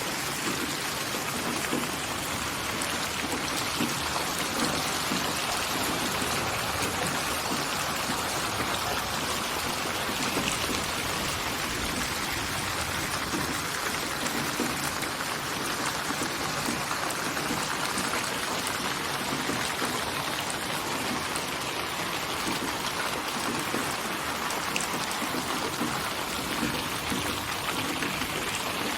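Steady rain falling, a dense even patter of drops on surfaces with no let-up.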